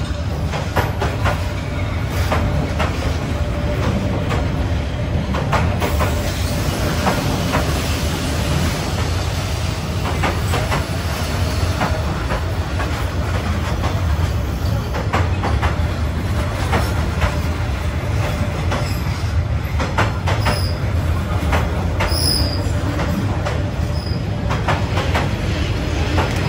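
A Vietnam Railways passenger train passing at very close range: a steady low rumble of carriages with repeated sharp clacks of the wheels over the rail joints. A few short, high wheel squeaks come in the last third.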